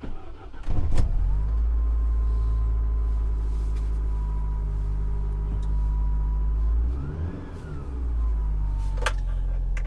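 Fiat Coupé 2.0 16V Turbo's four-cylinder turbo engine running steadily at idle with a thin steady whine over it. About seven seconds in the engine note dips while the whine rises and falls, then settles again. A sharp click comes near the start and another near the end.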